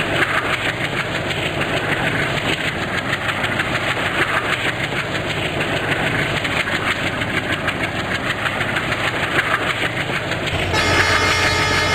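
Train running past, with a steady clatter of wheels over the rails. Near the end the sound shifts and a steady tone comes in over it.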